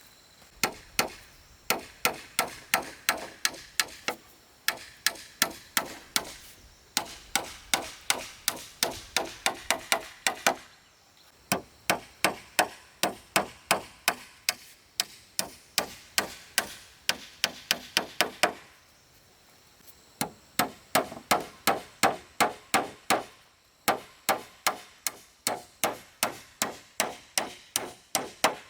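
Hammer driving nails into wooden formwork, struck in quick runs of about three blows a second with short pauses between runs.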